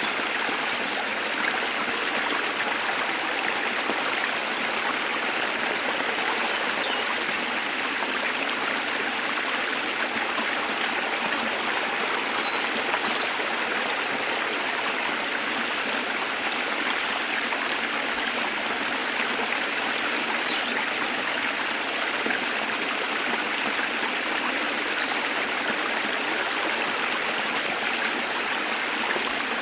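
Waterfall water rushing and splashing in a steady even noise, with a few faint short bird chirps above it now and then.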